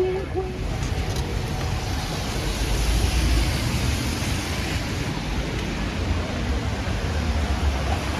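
Wet city street in the rain: a steady hiss of rain and tyres on wet road over a low rumble, swelling briefly about three seconds in.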